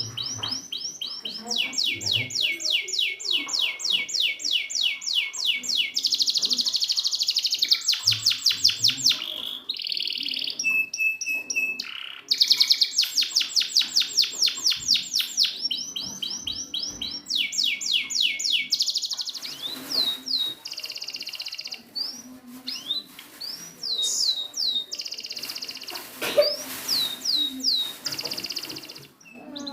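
Domestic canary singing a long song made of rolls: runs of one note repeated rapidly for a second or several, then switching to a different note type. Toward the end it shifts to spaced, quick rising whistled sweeps.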